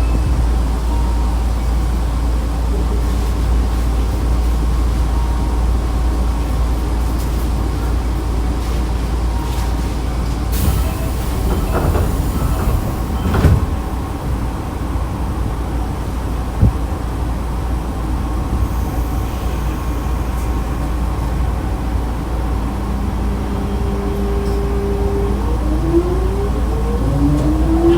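Inside a Nankai Kada Line electric train, set 2036F: a steady low rumble and hum, with a couple of short sharp knocks near the middle. From about 23 s in, a rising whine climbs in pitch as the train pulls away and accelerates.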